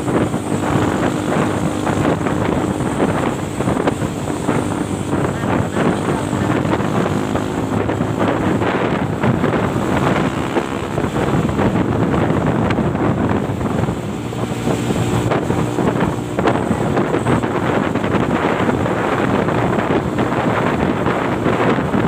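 Truck engine running steadily, its hum rising a little near the start and again about two-thirds of the way through, with heavy wind noise on the microphone.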